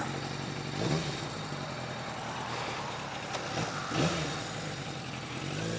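Yamaha 750 Seca's air-cooled inline-four engine running steadily at low revs, with brief rises and falls in pitch about a second in and again about four seconds in.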